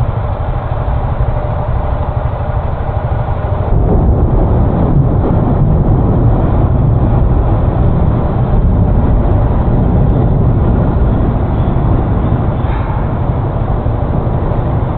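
Wind rumbling on an action camera's microphone while riding a Honda Forza 350 scooter, mixed with the vehicle's running noise. The rumble grows louder about four seconds in.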